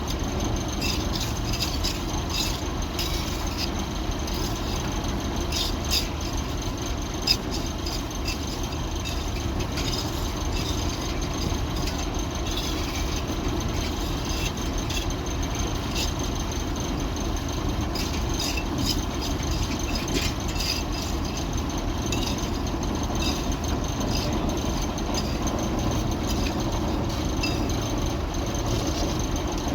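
Steady low mechanical rumble with many scattered light clicks and scrapes, and one sharp knock about seven seconds in.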